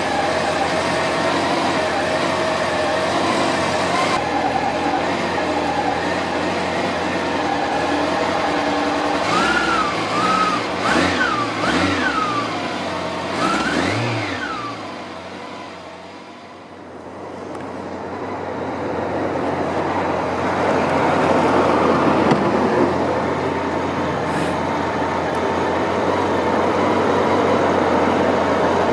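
Honda CB750's air-cooled inline-four idling steadily, then the throttle is blipped about four times in quick succession, each rev rising and falling. After a fade, the engine runs under way with wind and road noise building as the bike rides along.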